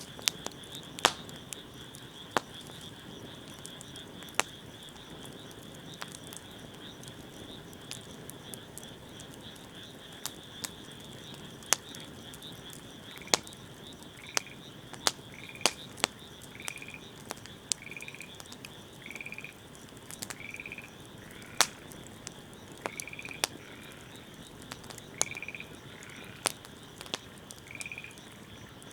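Wood fire crackling with scattered sharp pops, over a steady high-pitched trill of calling frogs. From about halfway, a frog gives short repeated calls roughly once a second.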